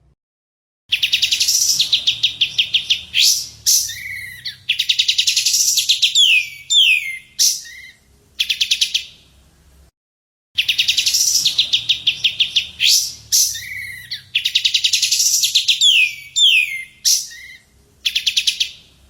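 Recorded songbird song used as masteran tutor audio: a fast, rapid-note trill followed by a string of sharp downslurred whistles. The same phrase plays twice, with a short gap between.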